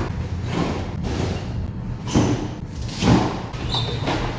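Two dull thumps about a second apart over a steady low rumble, the sort of knocks made by handling parcels.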